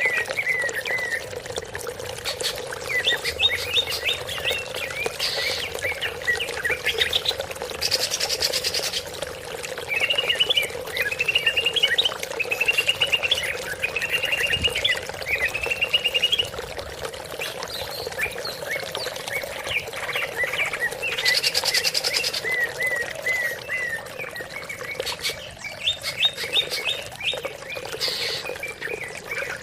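Green leafbird (cucak ijo) song: a run of varied chirping phrases and quick rising-and-falling trills with short bright squawky bursts, over a steady low hum. It is played as a lure to set a silent cucak ijo singing.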